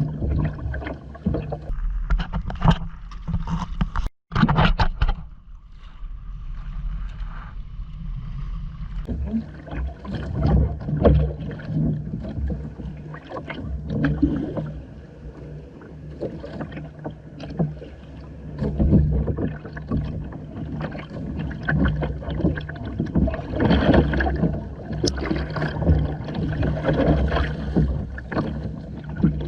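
Water splashing and gurgling against the hull of a Hobie Island sailing kayak under way, with a steady low hum underneath. The sound cuts out briefly about four seconds in.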